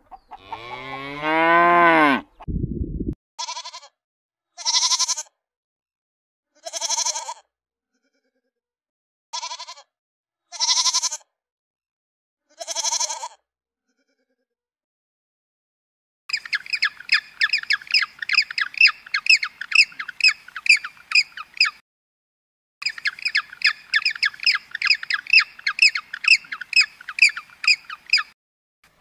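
A run of farm-animal calls: one long falling moo from a cow, then six short bleats from a sheep or goat about two seconds apart, then two long stretches of rapid, high chirping with a brief break between them.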